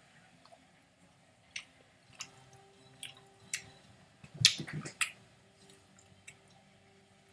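Close-up mouth sounds of someone chewing a chocolate-covered strawberry: scattered wet clicks and smacks, with a louder cluster of clicks about four and a half seconds in.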